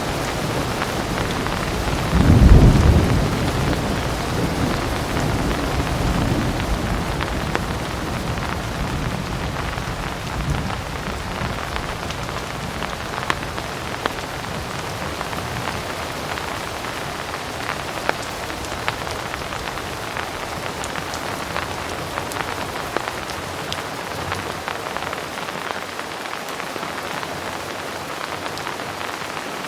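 Heavy rain falling steadily, with a loud thunderclap about two seconds in that rumbles away over the next several seconds; sharper individual drop hits stand out near the end.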